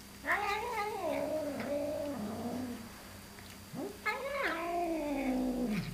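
Domestic cat making two long, drawn-out yowling calls, each wavering and sliding down in pitch, the second starting about four seconds in.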